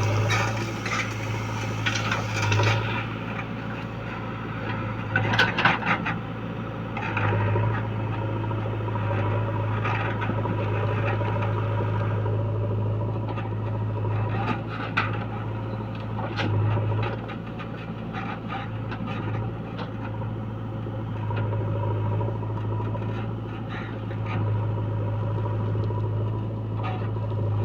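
Diesel engine of heavy machinery running steadily, with irregular scraping and clattering knocks over it.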